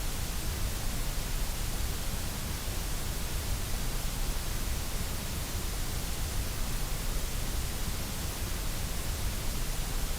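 Steady, unchanging synthetic white noise: an even hiss across the whole range with a low rumble underneath.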